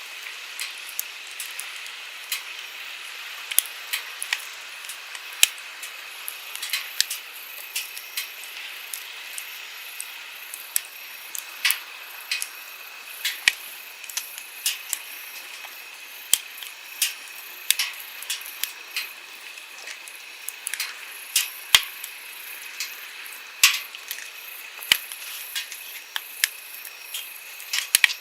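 Wood campfire crackling, with frequent irregular pops and snaps, some sharp and loud, over the steady rush of a flowing stream.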